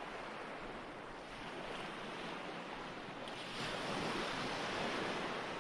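Recorded ocean waves washing onto a shore as a steady rush, swelling a little past the middle.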